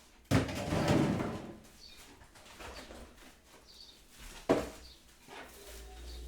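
Kitchen handling noises: a loud clattering, rustling burst starting suddenly about half a second in and lasting over a second, then a sharp knock a few seconds later. Faint birdsong runs underneath, and a low steady hum comes on near the end.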